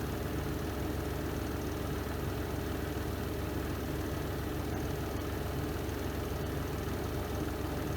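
Renova semi-automatic twin-tub washing machine on its spin cycle: the spin drum turning at speed with a steady, even low hum and whir.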